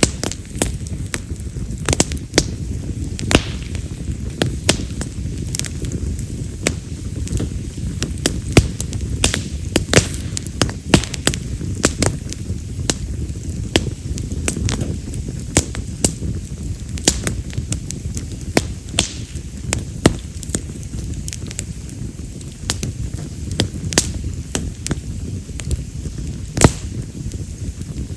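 Wood fire of split wild mountain cherry firewood burning, with a steady low rush of flames and constant crackling: frequent sharp pops, irregularly spaced, a few much louder than the rest and sounding like firecrackers.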